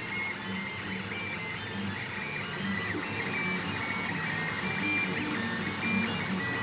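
RAR Print Double 3D printer's stepper motors whining as the print heads move, a stream of short steady tones that jump in pitch from one move to the next.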